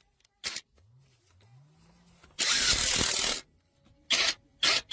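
Four bursts of pressurised hissing spray: a brief one about half a second in, a longer one of about a second midway, and two short ones near the end.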